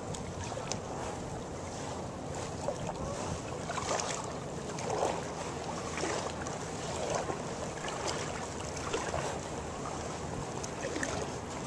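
Water lapping and splashing gently around a float tube, with wind noise on the microphone.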